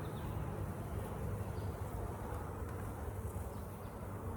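Honey bees buzzing steadily around an open hive during an inspection.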